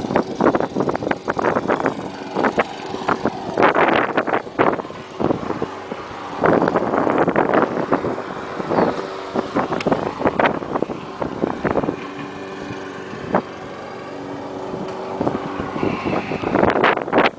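A Chevrolet 396 big-block V8 idling steadily through a Flowmaster exhaust, with irregular buffeting and knocking noises over it.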